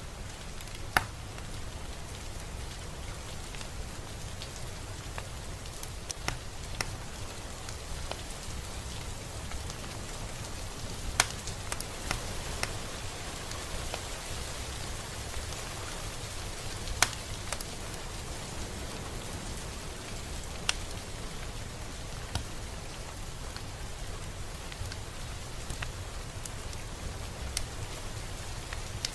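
Steady rain falling, an even hiss with a few sharp, louder drops ticking here and there, about a dozen of them.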